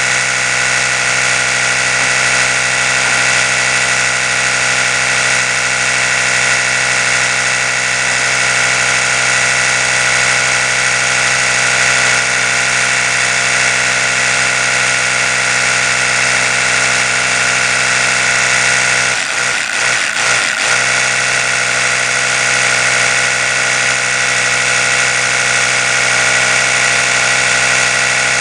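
Oral-B electric toothbrush running, a steady high buzz with a brief wavering dip about nineteen seconds in.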